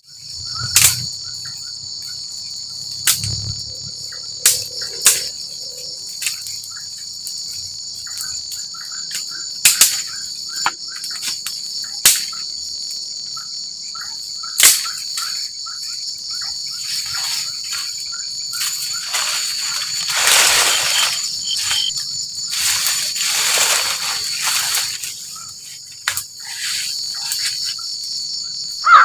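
Tropical forest insects, crickets or cicadas, buzzing in a steady high drone, with scattered sharp clicks and knocks in the first half. Two long swells of rushing noise rise and fade later on.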